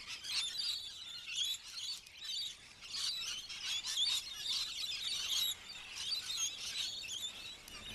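A flock of rainbow lorikeets calling, with many short, high, overlapping chirps and squawks.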